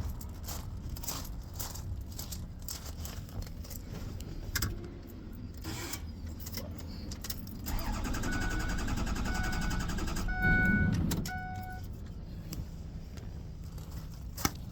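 Keys jangling and rattling in a pickup truck's cab, then the truck's dashboard warning chime beeping four times about once a second, over a steady mechanical running sound lasting two to three seconds that ends in a short louder low rumble.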